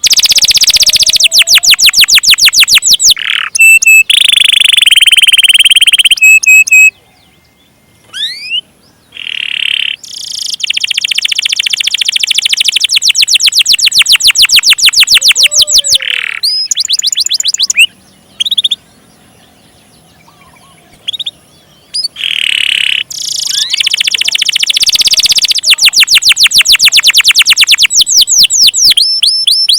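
Domestic canary singing loudly in long rolls: fast runs of repeated high notes and some held tones, broken twice by brief pauses.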